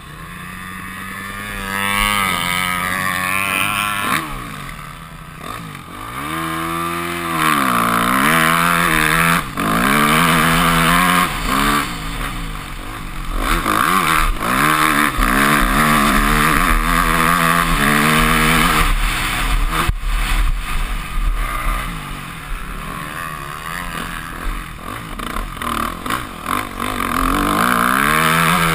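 Yamaha YZ250F's 250cc single-cylinder four-stroke engine being ridden hard on a motocross track, revving up and dropping off again and again through gear changes and throttle cuts. Loud wind rush on the helmet-mounted microphone runs underneath.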